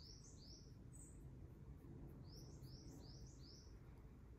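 A bird calling faintly, a run of quick falling chirps at about three a second, a lone higher note, then another run of four chirps, over quiet room tone.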